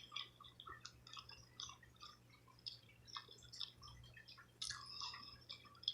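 Faint, close-up chewing of a spicy shrimp sushi roll: irregular soft, wet mouth clicks and squishes.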